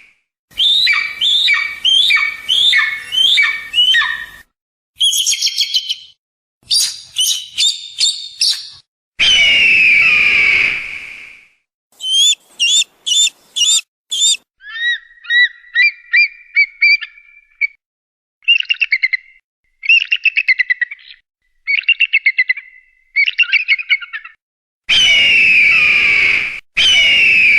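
Calls of eagles and hawks played one after another. First comes a run of about six short falling cries, then short high calls. A long harsh call of about two seconds comes about nine seconds in and again near the end, with bursts of quick chattering calls between them.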